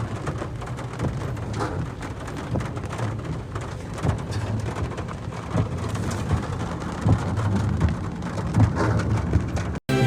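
Heavy rain falling and splashing, with a dense crackle of drops and a steady low rumble underneath; it cuts off abruptly near the end.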